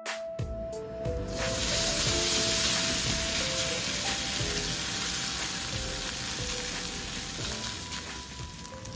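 Shredded potato and ham frying in hot oil in a pan: a loud sizzle that starts about a second in and slowly eases off.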